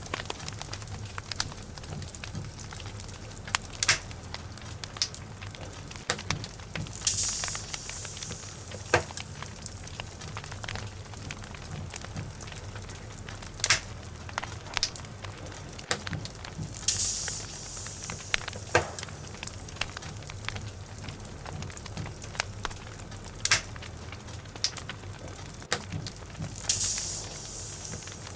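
Log fire crackling, with irregular sharp pops over a steady low rumble and short bursts of high hissing about every ten seconds.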